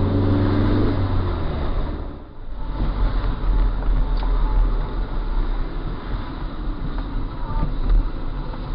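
Car engine and road noise heard from inside a moving car: a steady low rumble and hiss, with a droning hum for the first second or so and a brief drop in level about two seconds in.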